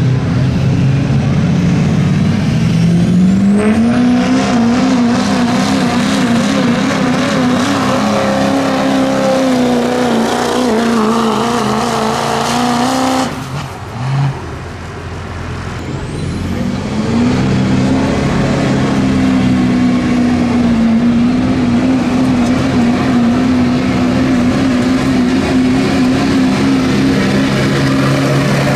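A pulling truck's engine revs up and runs at high, wavering revs under heavy load as it drags the weight-transfer sled. The sound breaks off suddenly about halfway. A few seconds later an engine climbs back to high revs and holds there.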